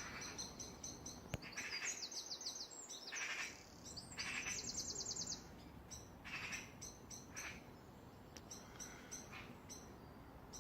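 Several small garden birds singing and chirping in short repeated phrases, with two fast high trills about two and four and a half seconds in. The calls grow sparser and quieter after about six seconds.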